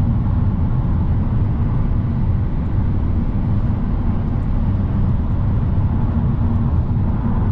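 Steady road and engine rumble heard from inside a car cruising at highway speed, with no changes or distinct events.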